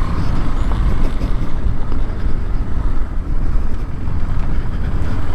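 A vehicle engine running, mixed with wind buffeting the microphone.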